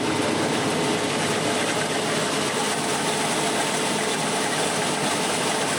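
Combine harvester running with a steady mechanical clanking from the feeder house: the feeder house chain running slack because its tensioner bolt has snapped and the tension spring is lost.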